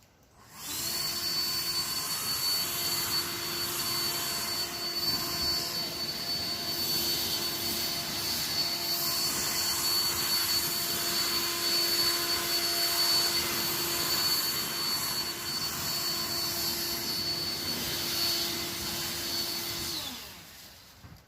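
A motor-driven blower running at a steady pitch: a loud rush of air with a steady whine on top. It starts abruptly about a second in and winds down near the end, its whine dropping as it stops.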